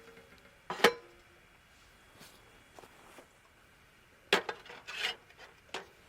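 Camp gear being handled: a few sharp knocks and clinks, the first about a second in with a brief ringing after it, then a cluster of three near the end.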